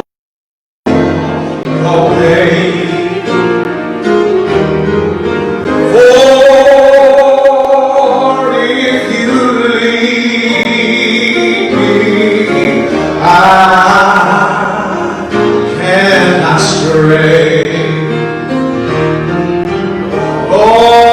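Gospel singing with instrumental accompaniment, after a dropout of under a second at the very start.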